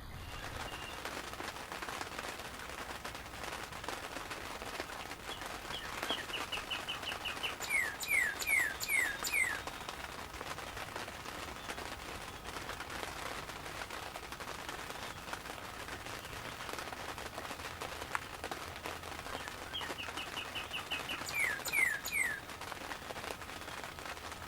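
A songbird sings the same short song twice, about a quarter-minute apart. Each song is a quick run of short, even notes followed by a few falling slurred notes. Underneath runs a steady hiss with light ticking, which fits rain falling on the blind.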